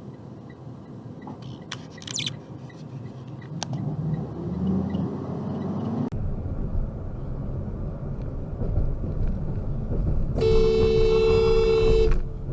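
Traffic and road noise from a car on the move, with a car horn sounding one long blast of nearly two seconds near the end.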